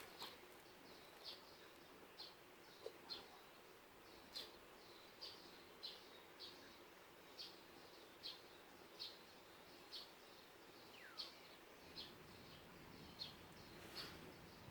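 Faint, short, high chirps of a small bird, repeated over and over at roughly one to two a second, with one brief falling call about eleven seconds in.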